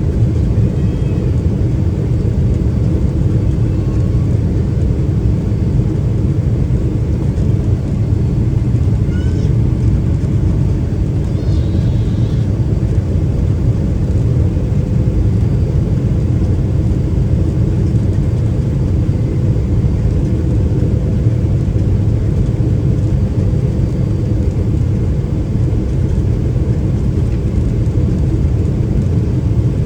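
Steady low rumble inside the cabin of a Boeing 777-300ER on final approach: airflow noise over the fuselage together with the drone of its GE90-115B turbofan engines, with a faint steady hum.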